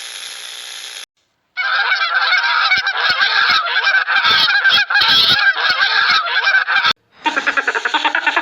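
A flock of geese honking, many calls overlapping, for about five seconds between two brief silent cuts; another animal sound begins near the end.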